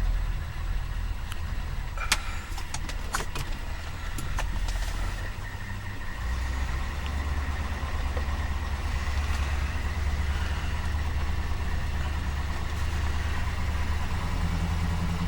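A 1974 Ford Galaxie 500's 400 cubic-inch V8 idling with a steady low rumble that gets heavier about six seconds in. A few sharp clicks come about two to five seconds in.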